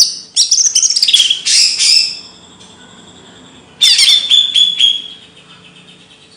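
A songbird sings in two loud bursts of rapid, high chattering notes, each about a second and a half long, with a short pause between them.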